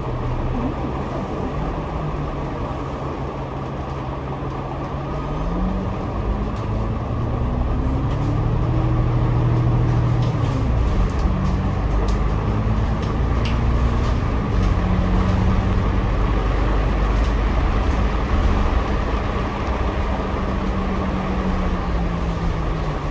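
Double-decker bus engine and drivetrain heard from the upper deck. The engine note climbs in pitch as the bus accelerates, about five to eight seconds in, and drops sharply around ten seconds in at a gear change. It then holds a steady note while cruising, over constant road rumble.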